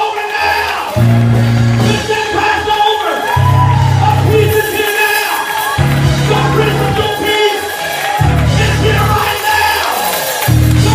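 Live church praise music with heavy bass notes held about a second each, and voices shouting and singing over it.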